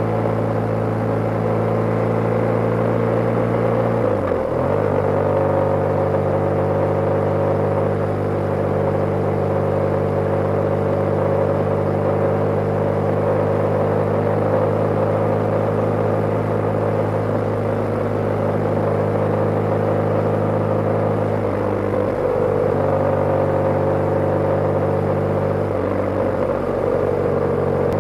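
BMW G/S motorcycle engine running steadily under way, its note shifting briefly about four seconds in and twice more near the end.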